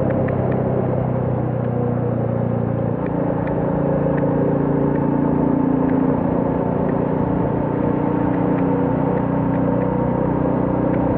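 Royal Enfield Classic 350's single-cylinder engine running under way, a steady exhaust note whose pitch changes about three seconds in.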